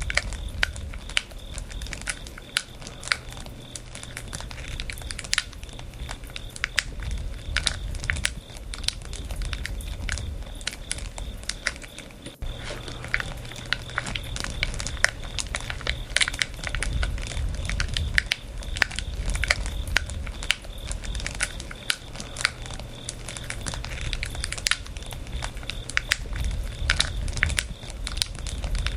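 Campfire of burning wood crackling, with frequent sharp pops and snaps over a low steady rumble of the flames.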